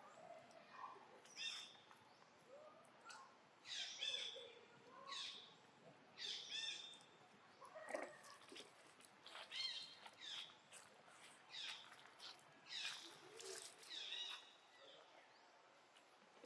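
Faint, short, high-pitched animal squeaks, about a dozen of them, coming roughly once a second. Several of the squeaks fall in pitch.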